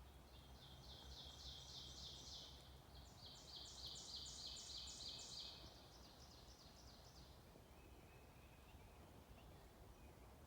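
A small songbird singing two runs of rapid, high repeated notes, about five a second, which fade out near the middle, over a faint outdoor hush.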